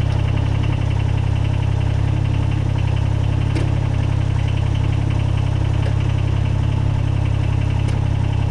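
Kubota BX22 compact tractor's small three-cylinder diesel engine idling steadily.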